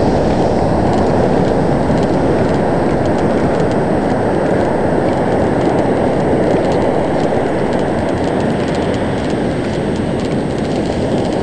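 Steady wind and surf noise on an ocean beach: a loud, even, low rush with no distinct events.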